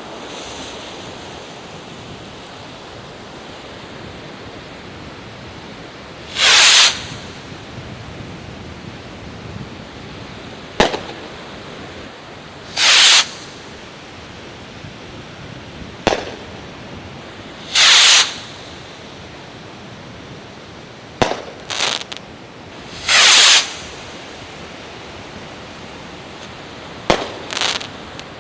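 Small fireworks rockets fired one after another: four times a short whoosh of a rocket taking off, each followed three to four seconds later by a sharp pop in the air, one of them a quick string of crackles. A steady hiss lies underneath.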